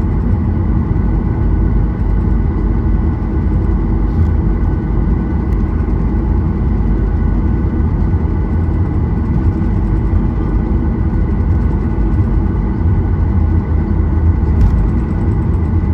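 Steady cabin noise inside a Boeing 737-800 with its engines at idle: a low, even rumble with a thin steady whine on top, holding level throughout.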